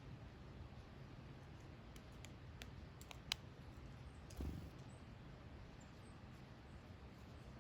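Near silence with a few faint, scattered clicks and one soft low thump about four and a half seconds in.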